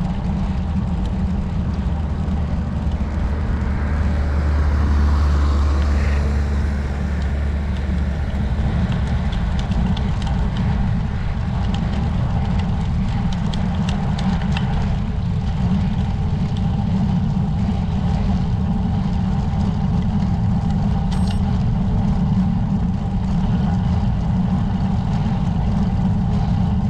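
Wind rumbling steadily on the microphone of a camera mounted on a moving road bike, with tyre and road noise underneath; the rumble swells briefly about five seconds in.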